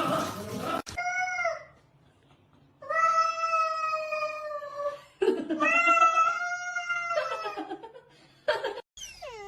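A domestic cat yowling: a short meow, then two long, drawn-out meows of about two seconds each.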